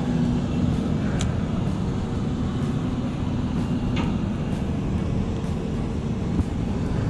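Steady low engine rumble with a faint hum, broken by a couple of faint clicks.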